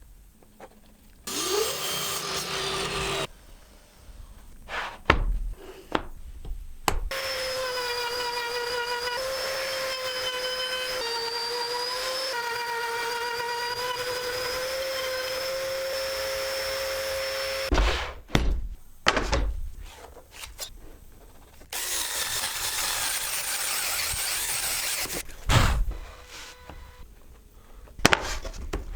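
Woodworking power tool running in three spells, the longest about ten seconds with a steady whine that dips slightly now and then, as if under load. Sharp wooden knocks and taps fall in the pauses between runs.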